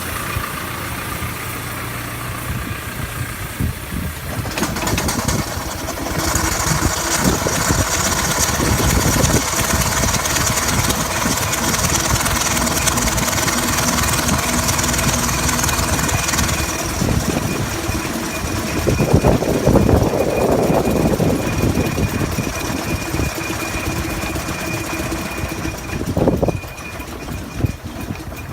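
6-inch scale Burrell showman's steam traction engine working along the road, with a steady rhythmic beat and mechanical clatter. A high hiss joins about six seconds in, and there is a louder burst around twenty seconds in.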